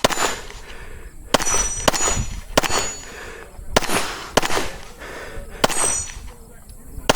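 Pistol shots fired at steel targets, about seven at uneven spacing, several followed by the high ringing ding of the steel being hit.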